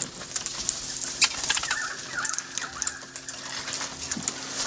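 Wild parrots fluttering about, with scattered sharp ticks and a short thin chirping call in the middle.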